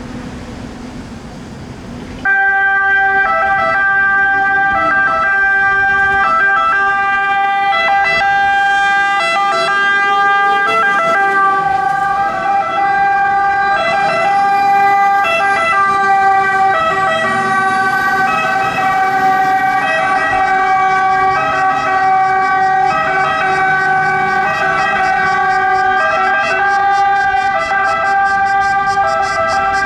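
Fire engines' two-tone sirens wailing together, switching in loud and abruptly about two seconds in over the rumble of the trucks. One siren's alternating notes overlap another, out of step.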